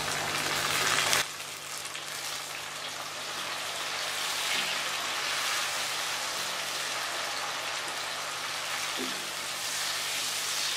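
Sliced onions, tomato pieces and dried red chillies sizzling in hot oil in a nonstick karahi, a steady frying hiss that is a little louder for the first second just after the tomatoes go in.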